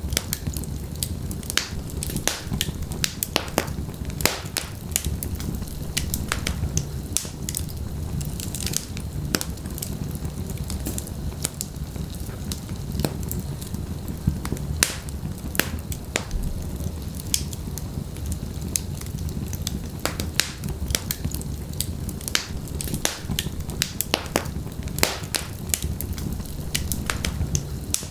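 Wood fire crackling steadily in a fireplace: burning logs give off irregular sharp pops and snaps over a low, steady rumble of flame.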